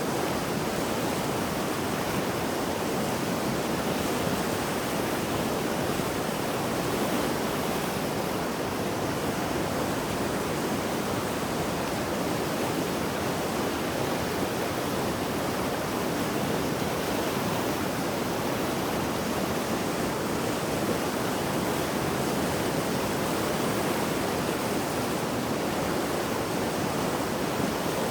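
Swollen mountain river in flood rushing and churning, a steady, unbroken roar of water.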